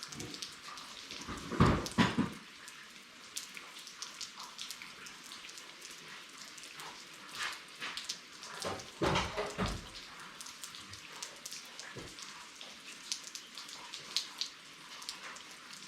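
Steady rain falling, with many small drip ticks. A few louder knocks and thumps come about two seconds in and again around nine seconds in, from things being moved about.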